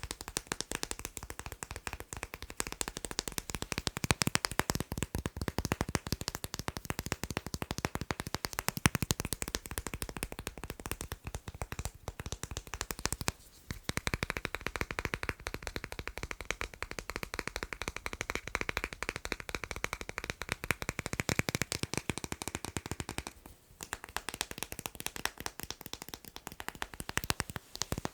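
Very fast tapping on magnets, a dense run of quick clicks with two brief pauses.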